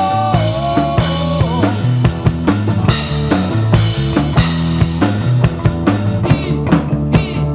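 Live rock band playing an instrumental stretch of a rock-and-roll song: drum kit keeping a steady beat with bass and guitar. Singing comes back in near the end.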